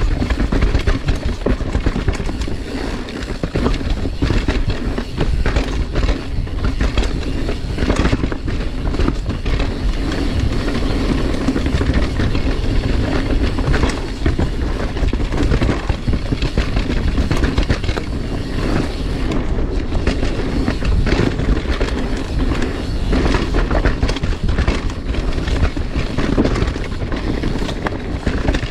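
Mountain bike riding a dirt singletrack: tyres rolling over the ground and the bike rattling with many small knocks over bumps, over a steady low rumble.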